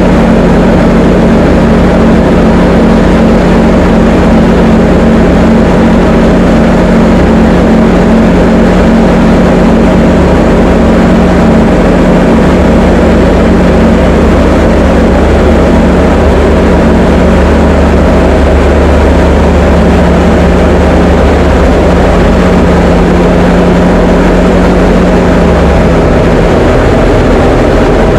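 A Diamond DA20 light aircraft's piston engine and propeller drone steadily in cruise. The engine's tone shifts slightly a couple of seconds before the end.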